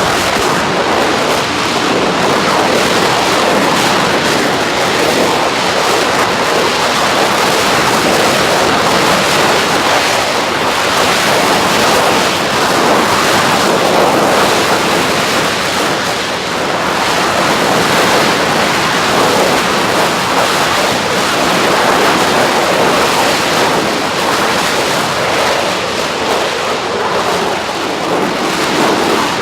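Liquid-fuel rocket engine firing on a test stand: a loud, steady rushing noise with no clear pitch, holding at an even level throughout.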